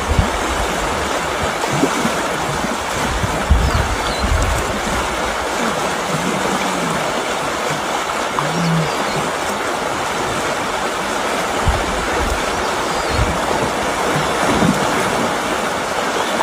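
Steady rush of flowing river water, with a few short low thumps.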